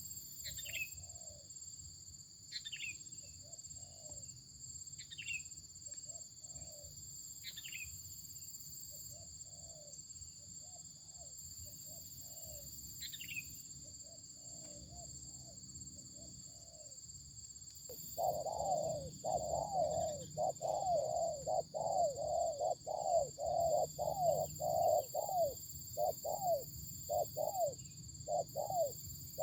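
Wild dove (anduhur dolok) cooing in soft repeated notes, which become loud and rapid, about two a second, from a little past halfway. Thin falling whistles come every few seconds during the first half.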